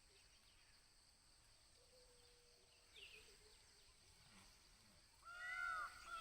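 Faint, steady high-pitched insect drone. About five seconds in, an animal starts a loud run of repeated arching calls, each rising and falling, several a second.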